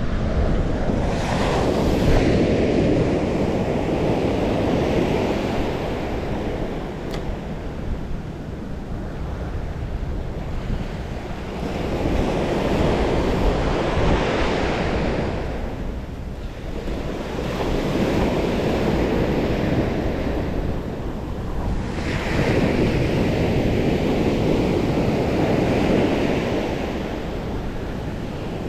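Sea waves breaking on the shore, the surf swelling and easing in long surges every five or six seconds, with wind buffeting the microphone.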